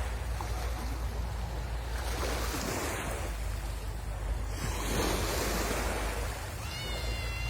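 Sea waves breaking and washing up the shore in slow swells, with a low wind rumble on the microphone. Just before the end a brief high, slightly wavering whistle-like call sounds over the surf.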